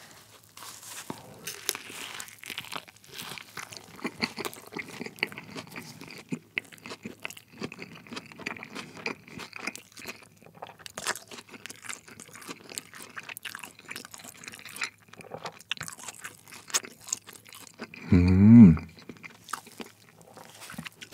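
Close-miked chewing of a beef burger with soft bun and lettuce, full of small wet clicks and crackles as he bites and chews. About 18 s in comes a short, loud hummed "mm" from the eater.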